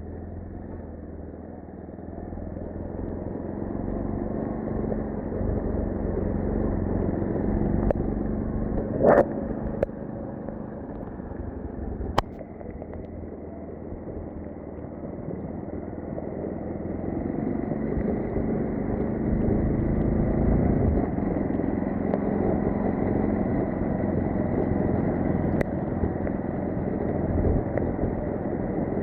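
A motor vehicle on the move: a steady rumble of engine and road noise that slowly swells and eases. There are sharp knocks about nine and twelve seconds in.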